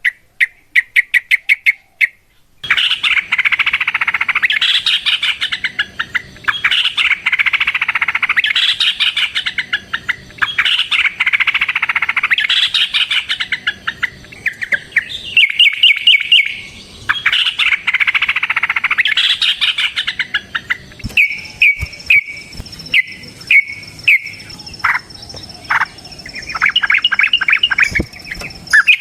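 Yellow-vented bulbuls singing. A few seconds of quick repeated chip notes give way to long, rapid chattering song phrases of about two seconds each, one after another. Near the end these thin to short separate notes, with a few sharp clicks.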